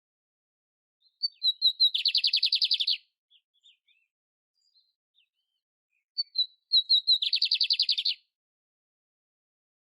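Domestic canary singing two phrases. Each phrase opens with a few high separate notes and runs into a fast, even trill about a second long, with a few soft twitters between the phrases.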